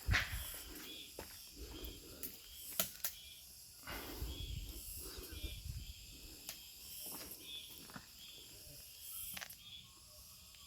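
Wood fire in an ondol firebox crackling, with irregular sharp pops over a low rumble and faint hiss.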